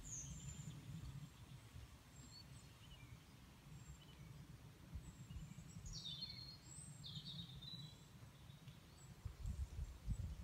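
Faint bird calls: a few short high chirps now and then, the clearest a little past the middle, over a low, uneven rumble like wind on the microphone.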